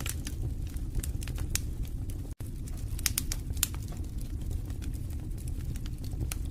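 Wood fire burning in a fireplace: irregular crackles and pops over a low, steady rumble of flames. The sound drops out for an instant about two and a half seconds in.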